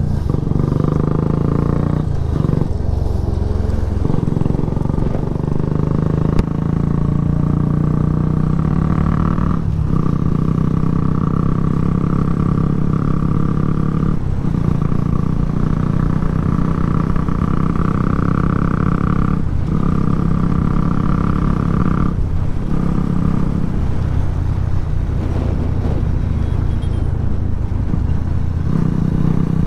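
Single-cylinder sport motorcycle engine running hard under way with its loud exhaust, with wind rumble underneath. The engine note holds steady but drops out briefly several times.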